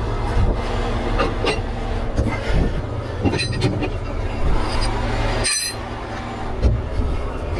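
Large diesel engine running steadily with a deep hum, with scattered short metallic clinks on top.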